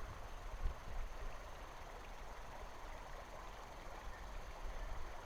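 Faint, steady rush of river water flowing, with some low rumble.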